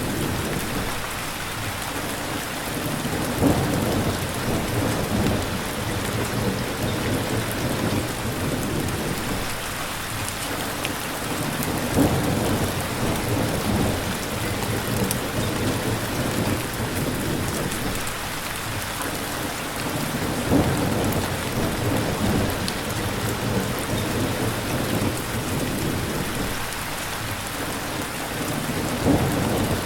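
Steady rain hissing across all pitches, with low rumbles of thunder swelling up four times, roughly every eight seconds.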